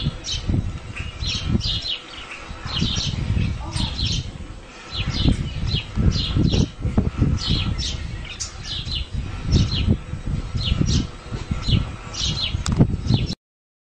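Small birds chirping over and over in quick clusters of short high notes, with an uneven low rumble underneath. The sound cuts off abruptly near the end.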